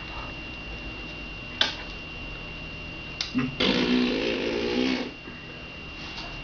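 A baby blowing a raspberry: a buzzing fart noise made with the lips, held for about a second and a half past the middle, after a short sharp sound earlier.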